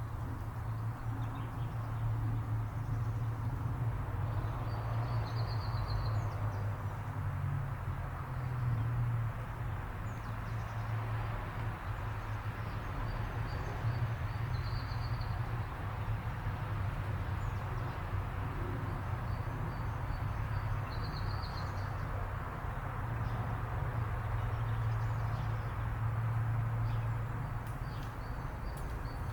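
A small bird giving a short, high trilled call three times, spaced several seconds apart, with a few fainter chirps, over a steady low rumble of background noise.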